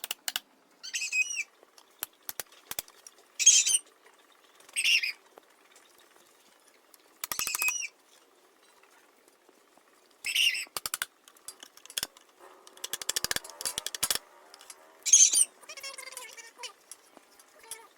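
Plastic bottle being worked and fitted by hand: short bursts of scraping and squeaking plastic, about eight in all, with scattered sharp clicks and a quick rattle of clicks about two-thirds of the way in.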